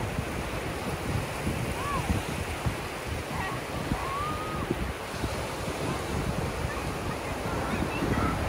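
Sea surf washing onto a sandy beach, with wind buffeting the microphone. A few brief, faint calls that rise and fall in pitch sound over the surf now and then.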